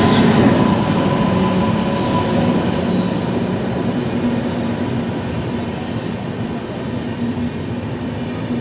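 Express passenger train rolling into the station, a steady rumble of coach wheels on the rails that eases slightly as it goes.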